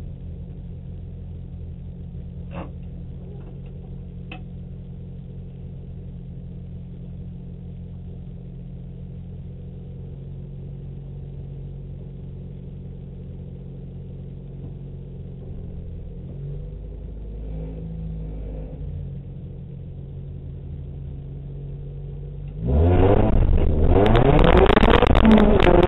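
Toyota Corolla Twin Cam's engine idling steadily, heard from inside the cabin. About 23 seconds in, the car launches at full throttle: the sound jumps sharply in loudness and the engine revs climb.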